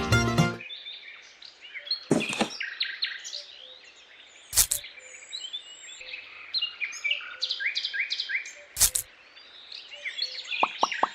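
Small birds chirping and singing, with three short, loud knocks about two, four and a half and nine seconds in. A quick run of short plinking plops, several a second, begins near the end.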